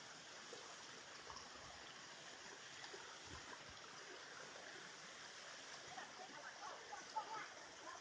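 Faint, steady rush of a forest stream, with small gurgles and splashes that grow busier near the end.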